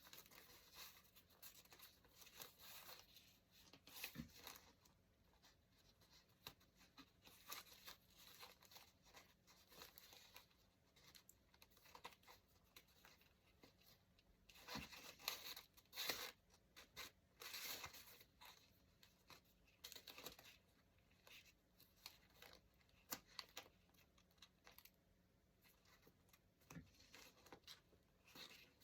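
Paper being torn and handled, faint and irregular rustling with scattered small clicks and scratches, busiest around the middle.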